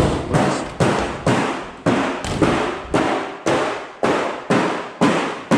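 Hammer banging on metal in a steady rhythm, about two blows a second, each blow ringing briefly.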